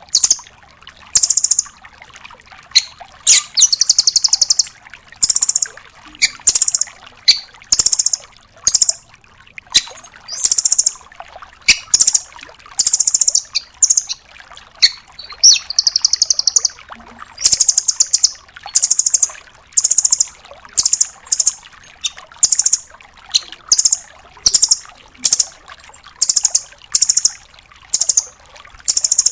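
Nuthatch calling: a steady run of short, very high-pitched rapid trills, about one or two a second, each a quick rattle of notes.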